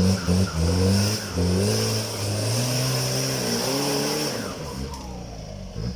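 Isuzu 4JB1 turbo-diesel four-cylinder engine revved in several blips, its pitch rising and falling, with the turbocharger's whistle and flutter as the throttle is released. The revving eases off near the end.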